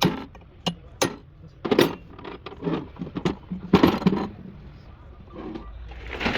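Metal tools and parts clinking and knocking: a string of sharp, irregular strikes, with a couple of louder clatters.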